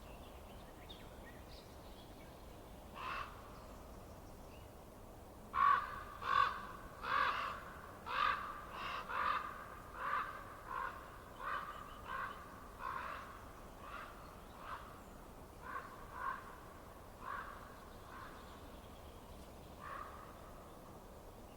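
A bird calling: one call about three seconds in, then a run of short calls at roughly one and a half a second, from about six to eighteen seconds in, and a last call near the end.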